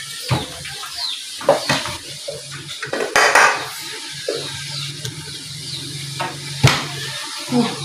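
Kitchen utensils and cookware clattering: scattered clinks and knocks of metal spoons and pots being handled. A low steady hum runs underneath from about halfway through.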